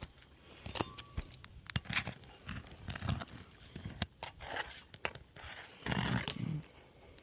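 A 3-tab asphalt shingle being pried loose: irregular sharp clicks and knocks with scraping between them, and a louder rustling scrape about six seconds in.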